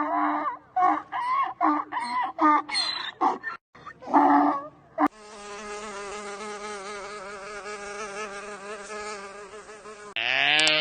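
Chickens clucking in quick repeated calls, then, after a click about five seconds in, a steady insect buzz for about five seconds. Near the end comes one loud, short call that rises and falls in pitch.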